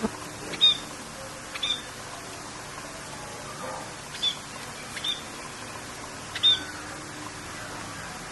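Short, sharp bird calls repeated about six times over a steady hiss of rain.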